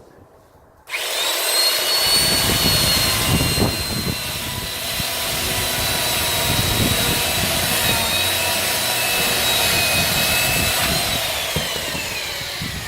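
Electric chainsaw switched on about a second in, its motor whining steadily as the chain cuts through firewood, then winding down with a falling whine near the end.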